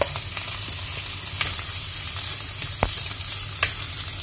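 Hot oil sizzling in a non-stick wok as mashed boiled potato and crushed coriander seeds are stirred with a wooden spatula. A few knocks of the spatula on the pan, the sharpest about three seconds in.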